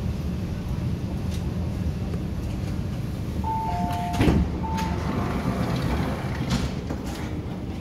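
MTR Island Line Q-Train heard from inside the car: a steady low running rumble. A few short electronic beeps and a sharp knock come about halfway through.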